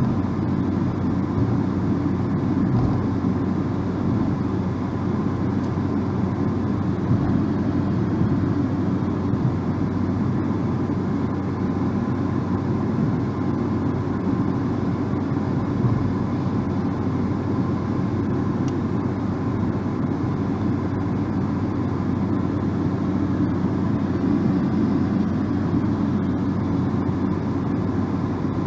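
Steady road noise inside a moving car's cabin: tyre rumble and engine drone holding even, with no distinct events.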